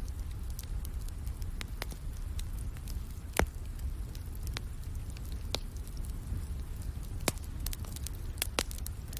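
Wood fire crackling, with irregular sharp pops (the loudest about three and a half seconds in) over a steady low rumble and a light hiss of rain.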